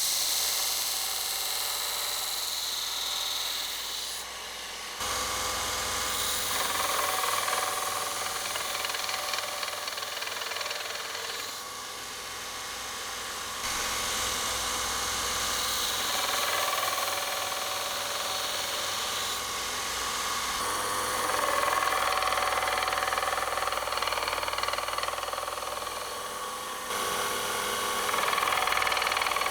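Power grinder grinding the steel of a forged horseshoe knife blade to put its edge bevels on, a continuous grinding whine whose pitch and strength shift abruptly several times.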